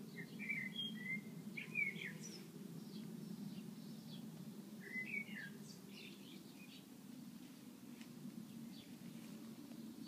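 Songbirds chirping: a cluster of short bright chirps in the first two seconds and another about five seconds in, with fainter calls in between, over a steady low background noise.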